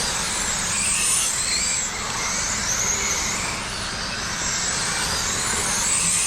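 A pack of radio-controlled outlaw trucks racing on a dirt oval just after the start. Their motors make several high whines that rise and fall in pitch as they accelerate and lift for the turns, over a steady hiss.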